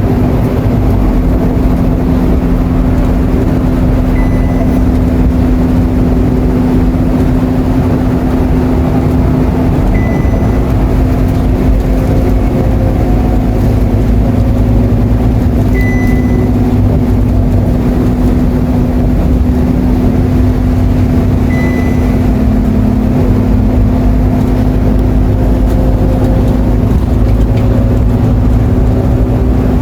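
Inside a Scania K230UB Euro IV bus on the move: the rear-mounted nine-litre five-cylinder diesel and driveline run with a steady drone. A brief high beep repeats about every six seconds.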